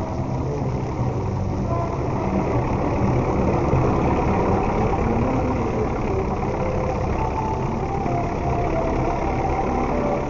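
Steady low mechanical rumble, engine-like, with short faint tones drifting above it.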